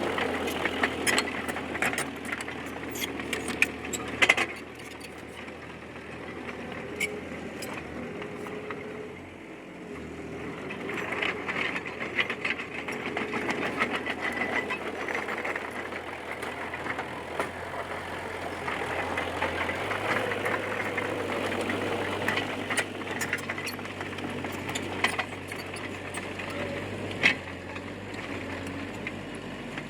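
Bulldozer's diesel engine running under varying load, its sound swelling and easing, with sharp clanks over it, loudest a little over four seconds in and near the end.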